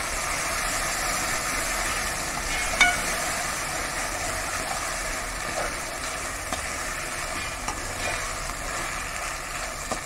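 Frozen green peas sizzling in hot oil in a pressure cooker as a spatula stirs them, with one sharp click about three seconds in.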